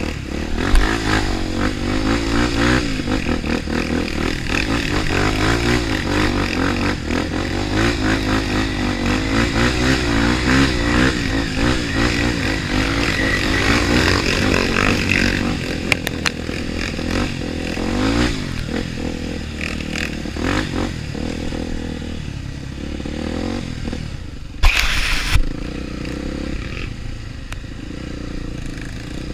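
Trail motorcycle engine running and revving unevenly, with clattering; the engine note is strongest for the first half and then drops back. A short, loud burst of noise comes about 25 seconds in.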